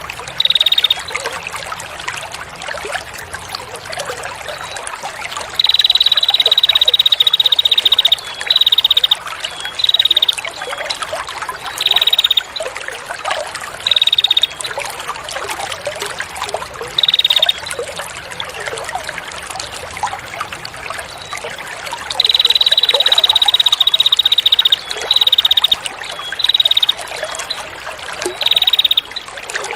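A small songbird's rapid, buzzy trill held on one high pitch, repeated in short runs with two longer runs of two to three seconds, over steady trickling water.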